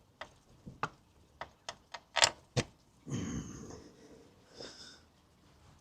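Small metal clicks and knocks, about eight in the first two and a half seconds, as steel engine mounting bolts are handled and pushed into the mounts of a motorcycle engine and frame. Then a breathy sniff or exhale, once long and once short.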